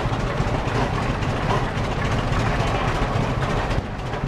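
Vintage tractor engine running steadily at low speed, a continuous low rumble.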